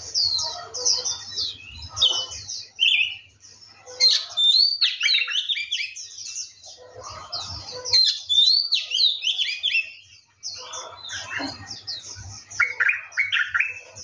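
Several songbirds chirping and calling together: a steady stream of rapid high chirps, with louder clear whistled downslurred notes about four and eight seconds in and a quick run of repeated notes near the end.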